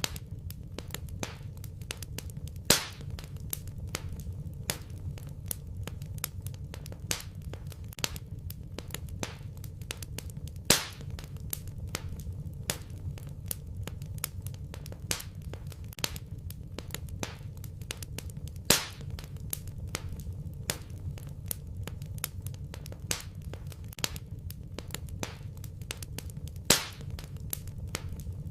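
Wood fire burning in a fireplace, crackling constantly over a low, steady rumble of the flames, with four louder pops about eight seconds apart.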